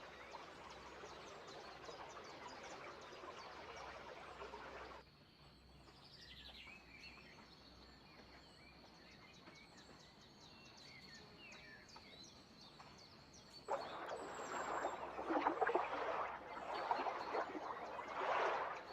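Birds chirping and calling over a dense rushing background noise. The noise cuts out abruptly about five seconds in, leaving scattered chirps over a thin steady high tone, then returns louder near the end.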